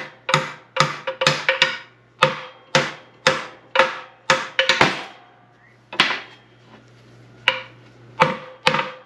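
Repeated hammer blows on steel, driving a bearing off a shaft of an SM465 transmission during teardown: sharp ringing strikes about two a second, with a pause partway through, over a faint steady hum.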